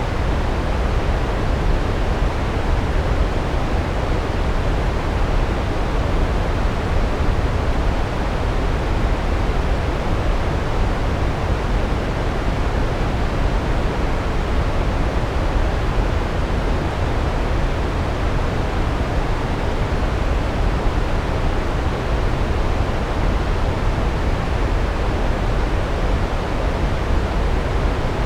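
Large waterfall: a steady, unbroken rush of falling water, heaviest in the low end.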